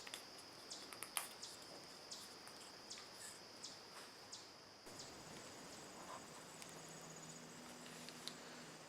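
Near silence: a faint steady high-pitched tone with a few soft clicks, joined about halfway by a low hum.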